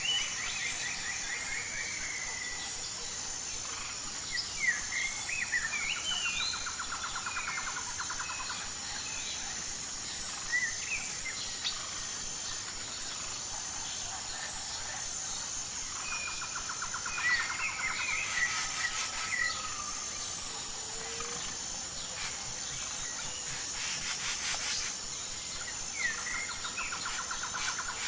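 Wild birds singing and chirping, with a rapid trill that comes back four times, over a steady high-pitched drone of insects.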